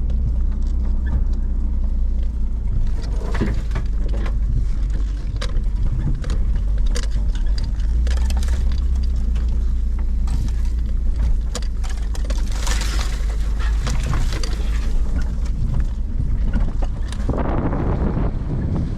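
Steady deep road and engine rumble of a Nissan Pathfinder heard from inside the cabin while it is driven along a forest road, with frequent short knocks and rattles from bumps. A rushing noise swells about seventeen seconds in.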